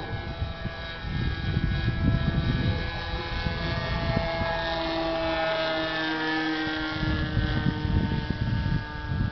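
Radio-controlled model F-22 jet in flight, its motor whining as a stack of steady tones that drift slowly up and down in pitch as it flies about and changes throttle.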